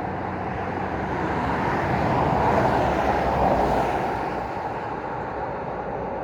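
Road traffic: a vehicle passes by, its tyre and engine noise swelling to a peak about three seconds in and then fading, over a steady background hum of traffic.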